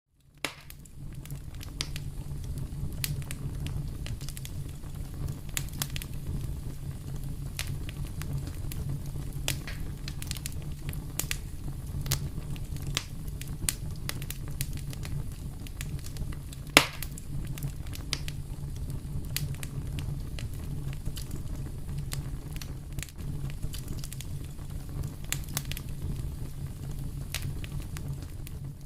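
Fireplace fire crackling, with many sharp pops over a steady low rumble of the flames; one pop a little past halfway is louder than the rest.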